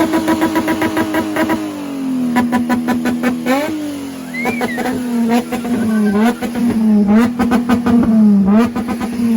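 Car engine revving hard and held at high revs, as when drifting. The pitch drops a step about two seconds in, then dips briefly and climbs back again and again.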